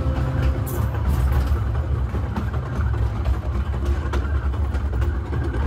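Steady low rumble of the narrow-gauge steam train rolling along the track, heard from aboard, with a few faint clicks from the wheels on the rails.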